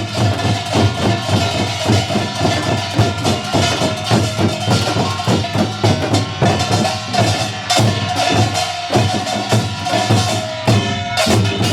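Korean pungmul percussion ensemble playing rapid drum strokes in a driving rhythm, with a sustained ringing tone held over it.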